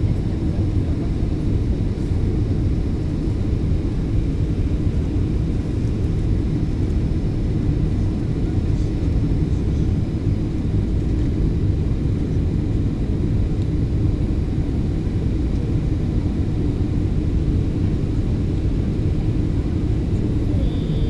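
Steady low rumble inside the passenger cabin of a Boeing 737-800 in flight: airflow over the fuselage and its CFM56-7B turbofan engines.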